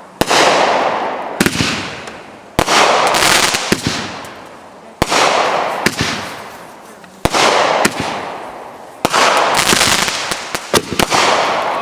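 Consumer fireworks going off: about six loud bangs a second or two apart, each trailing off in a long fading crackle, with smaller pops in between.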